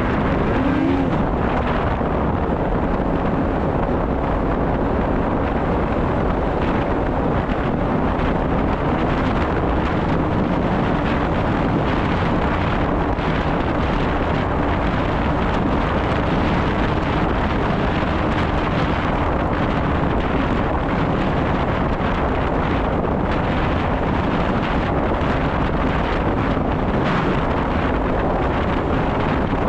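Snowmobile engine running at a steady speed under way, its pitch rising briefly at the start and then holding, with wind rushing over the microphone.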